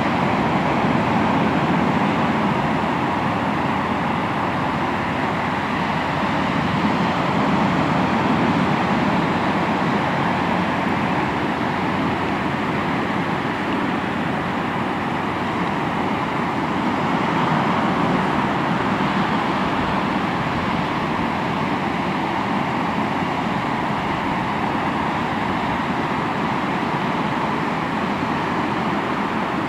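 Sea waves breaking and washing onto the shore: a continuous rushing surf that swells and eases every several seconds.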